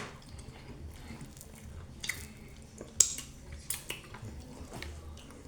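Eating sounds of fufu and soup: soft wet chewing with scattered sharp clicks, the loudest click about three seconds in.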